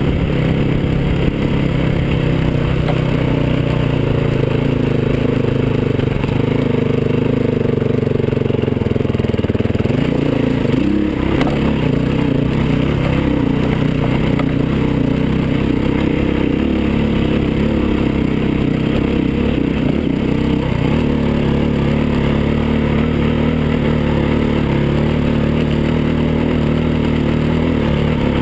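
Dirt bike engine running steadily under the rider as the bike crosses a grassy slope, its pitch shifting about a third of the way in and again later as the throttle changes.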